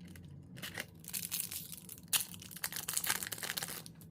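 Foil wrapper of a hockey card pack crinkling and tearing as it is ripped open by hand, in a run of crackly rustles.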